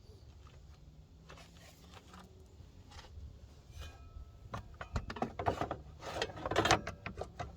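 Plastic radiator fan shroud being worked back into place in an engine bay: scraping and rubbing with a string of knocks and clicks, faint at first and busier and louder in the second half.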